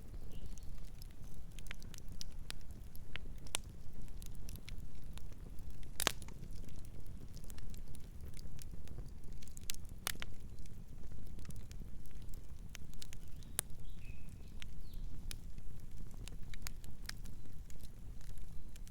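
Campfire crackling: a steady low rumble of burning wood with irregular sharp pops and snaps, the loudest about six seconds in. A faint bird chirp about two-thirds of the way through.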